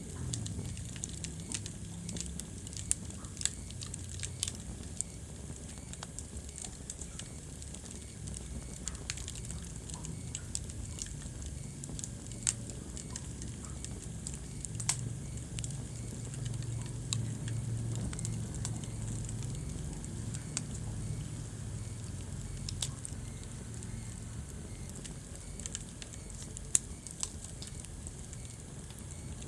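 Wood fire burning in a fireplace: irregular sharp crackles and pops, a few of them louder, over a steady low rumble of flames.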